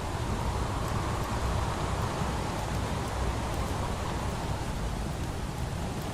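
Steady rain hiss mixed with the faint crackle of a wood fire, over a steady low rumble.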